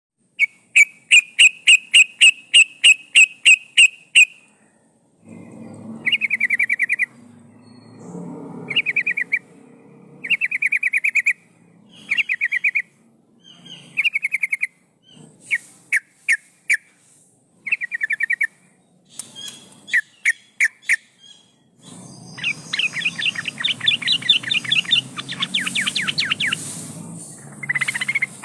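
Yellow-vented bulbul (trucukan) calling. It opens with a fast run of loud, clear, repeated notes. Then come short bubbly phrases every second or so, and near the end a denser stretch of chattering over a low background noise.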